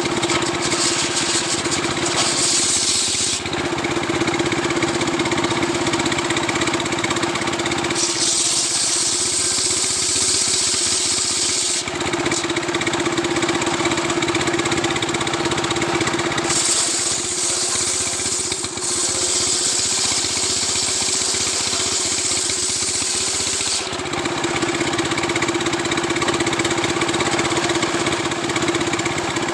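Stihl two-stroke chainsaw running steadily at high revs, with a few long stretches of added hiss, as when the chain is in the wood of a coconut palm log.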